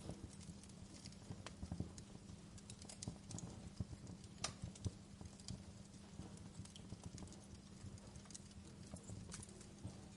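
Wood fire crackling in a fireplace: irregular sharp pops and snaps over a low steady hum, with a louder pop about four and a half seconds in.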